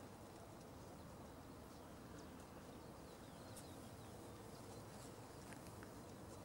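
Near silence: faint outdoor background with scattered short, high chirps of distant small birds.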